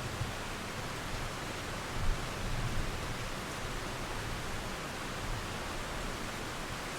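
Steady rain with flowing water, an even hiss with no breaks; a faint low rumble swells briefly about two seconds in.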